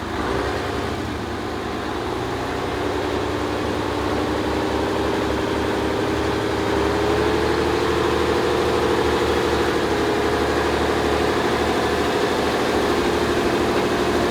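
Diesel engine of a 6x6 Praga V3S off-road truck, an air-cooled inline six, running steadily. It gets louder and rises a little in pitch over the first several seconds, then holds.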